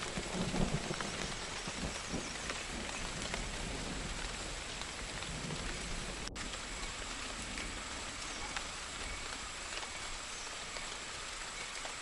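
Steady rain falling, a dense even patter with scattered drop ticks, as the last of a low thunder rumble fades out in the first second.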